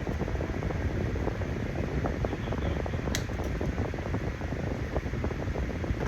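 Steady rushing background noise with a heavy low rumble, and a single sharp click about three seconds in.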